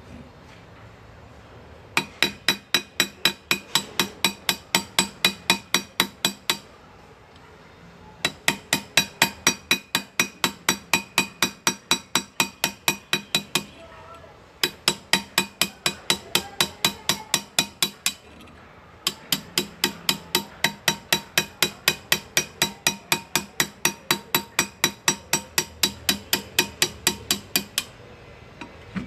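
Hand engraving: a small hammer tapping a steel graver through metal, light ringing metallic taps at about four a second, in runs of several seconds with short pauses between them.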